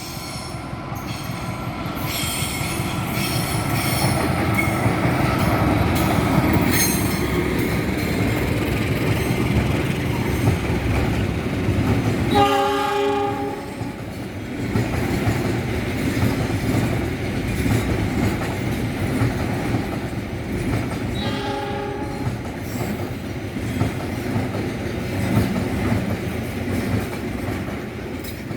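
A train running past with a continuous rumble of wheels on rails that builds over the first few seconds. Its horn sounds twice: a blast of about a second and a half around the middle, and a shorter one later.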